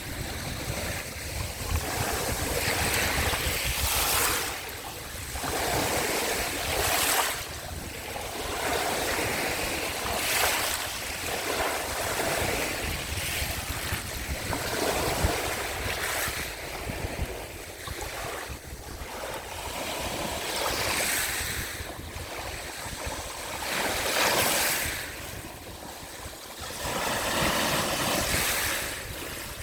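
Sea waves breaking and washing onto the shore, swelling and ebbing every few seconds, with wind rumbling on the microphone.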